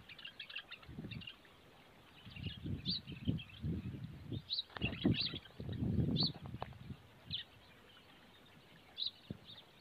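Small birds chirping in short, high calls about once a second, over low muffled noises that come and go and are loudest around the middle.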